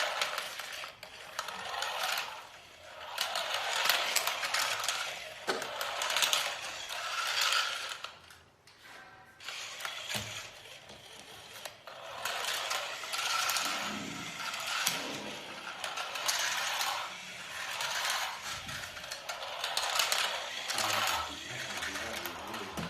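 A small geared mechanism whirring and clicking in swells that rise and fade every couple of seconds.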